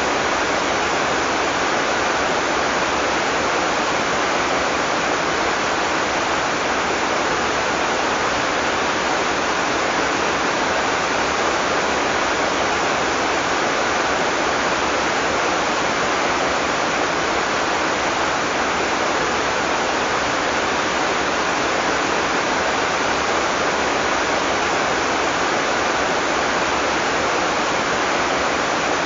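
Heavy tropical rain falling steadily, a dense even hiss without thunder or single drops standing out.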